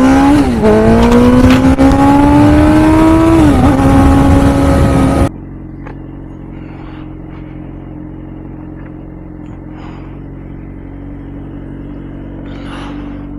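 Motorcycle engine accelerating hard, its pitch climbing and dropping at gear shifts about half a second in and near four seconds. About five seconds in it cuts off abruptly to a much quieter, steady low hum.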